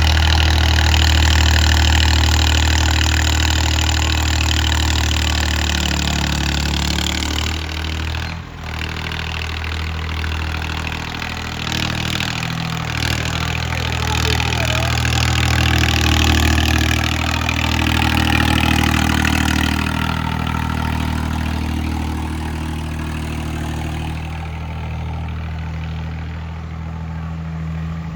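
Tractor diesel engine running steadily. Its note dips sharply for a moment about eight seconds in, then rises and falls, and eases lower near the end.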